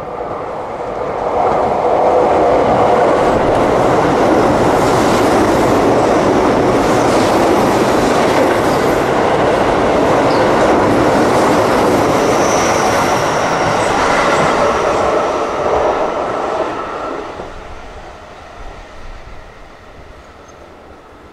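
Keio Line electric commuter train running through a station at speed without stopping: a steady rush of wheels on rail with rhythmic clatter over the rail joints. It builds over the first couple of seconds as the train arrives, stays loud and even, and fades away about sixteen seconds in.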